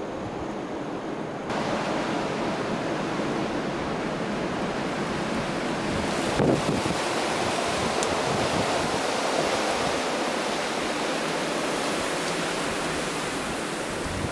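Blizzard wind blowing, a steady rushing noise that gets louder about a second and a half in, with a brief bump near the middle.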